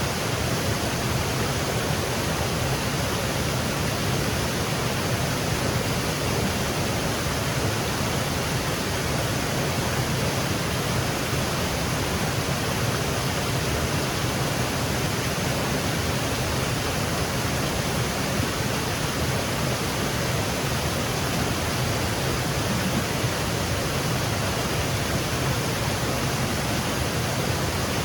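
Small woodland waterfall cascading, a steady even rush of water with no change over the whole stretch.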